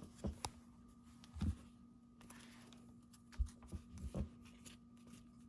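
Faint handling of baseball trading cards: a few soft clicks and taps scattered through as cards are flipped and slid over one another, over a faint steady hum.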